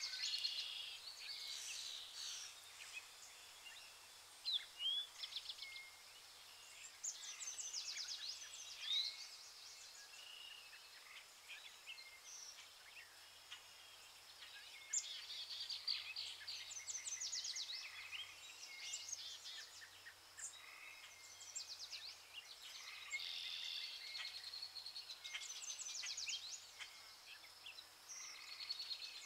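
Birds chirping and trilling, several calls overlapping: rapid trills and short rising whistles come and go, over a faint low hum.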